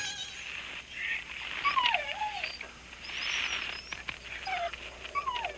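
German Shepherd whining: two wavering whines, one about two seconds in and one near the end, with a breathy hiss between them.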